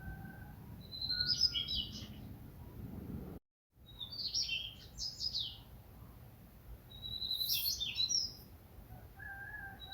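A songbird singing at dawn: three separate song phrases about three seconds apart, each opening with a thin high note that breaks into a quick jumble of chirps. A fainter, lower drawn-out whistle sounds near the start, and the audio cuts out briefly a little after three seconds.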